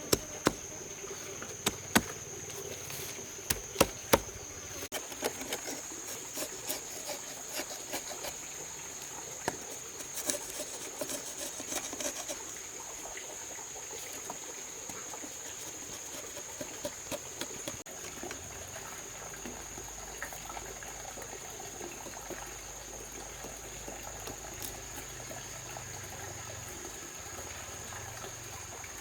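Insects shrilling steadily in a high, even drone. Scattered sharp knocks and taps come through the first dozen seconds, with a few more around the middle.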